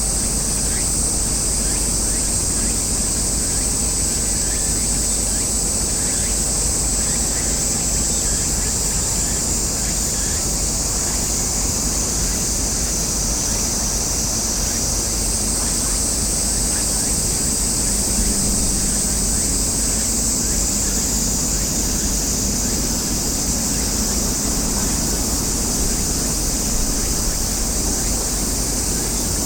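Steady outdoor noise with a constant high, shrill hiss over a low rumble, without distinct events.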